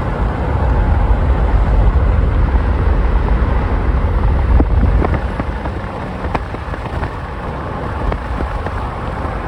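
Vehicle on the move: a steady low rumble with wind buffeting the microphone, easing slightly past the middle.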